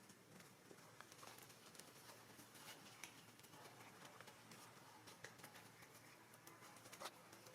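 Near silence: quiet room tone with faint, scattered small clicks and light taps.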